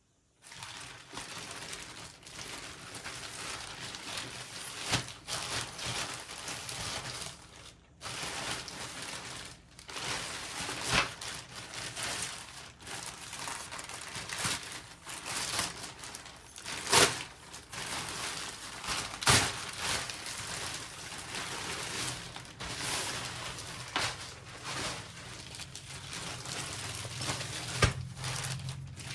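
Plastic packaging crinkling and rustling as a backpack is unwrapped and handled, with sharp clicks and knocks now and then.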